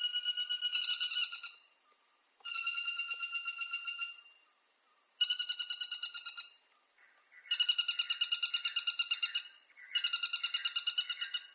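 Woodpecker calling: five quick series of sharp, evenly repeated notes, each series lasting about two seconds, with short pauses between them.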